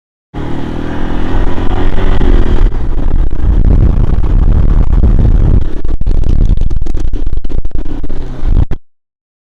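A four-wheeler (ATV) engine running and revving, with a heavy low rumble and many sharp knocks and rattles in the second half. The sound starts abruptly just after the beginning and cuts off abruptly near the end.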